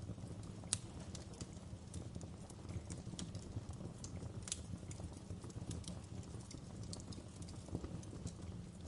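Wood fire crackling in a fireplace: a steady low rumble of flames with irregular sharp pops and snaps of burning logs, one louder pop under a second in.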